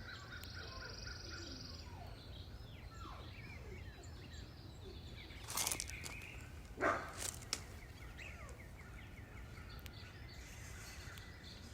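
Faint birds chirping and calling over a low, steady background rumble, with two brief louder sounds around the middle.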